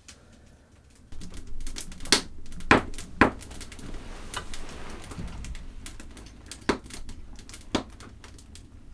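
Irregular sharp clicks and cracks, a few of them loud, over a low rumble; they start about a second in.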